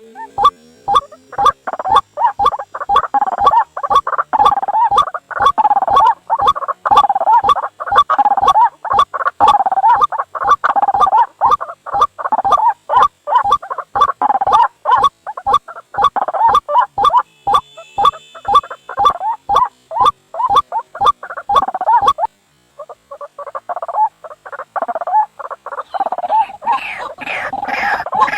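White-breasted waterhen (ruak-ruak) calling: a long, rapid run of repeated loud notes, about two a second, each starting with a sharp click. The calling breaks off briefly a little over three quarters through, then resumes brighter near the end.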